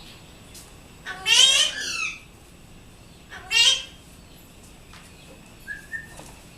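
Pet parrot calling twice: a longer, loud, shrill call about a second in and a shorter one a couple of seconds later, then a faint short chirp near the end.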